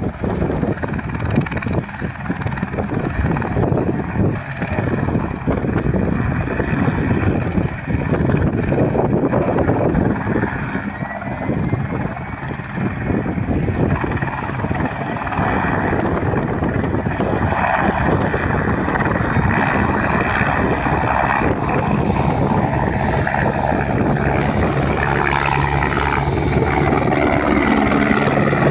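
Firefighting helicopter running close by, its rotor beating fast and steadily. A thin whine climbs slowly in pitch over the second half as the sound grows a little louder.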